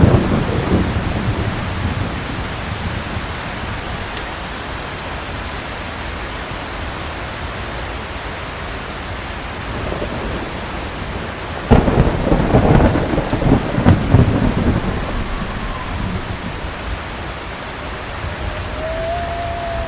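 Heavy rain falling steadily, with a sudden clap of thunder about twelve seconds in that rumbles on for about three seconds. The tail of an earlier thunder rumble dies away in the first second or so.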